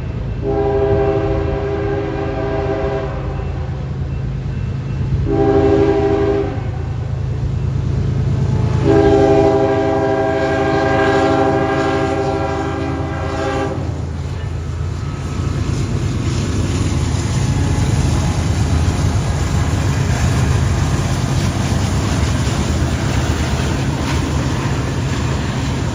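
BNSF ES44DC diesel locomotive leading a coal train, its air horn sounding three blasts over the low rumble of the engine: a long one, a short one, then a longer one. After the horn stops, the train's steady rolling rumble carries on as it passes.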